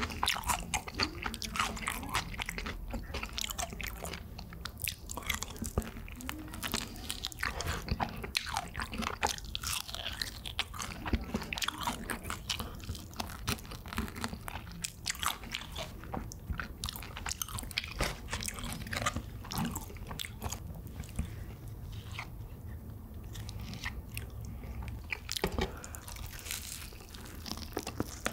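Close-miked crunching and chewing of crispy seasoned fried chicken (BHC Bburinkle) as bites are torn off a drumstick: a steady run of crackly crunches from the fried coating, with wet chewing between them.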